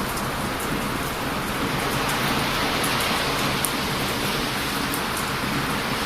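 Steady rush of heavy surf breaking on a beach, with a wood bonfire crackling in sharp little pops now and then.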